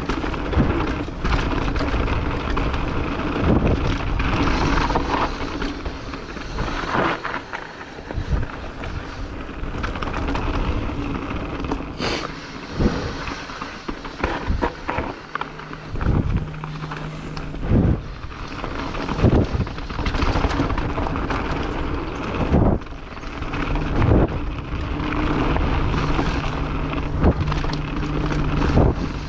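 Mountain bike being ridden down a dirt trail: tyre and drivetrain noise with wind on the microphone, broken by frequent sharp knocks and rattles from bumps. A steady buzz comes in twice, in the middle and again in the last few seconds.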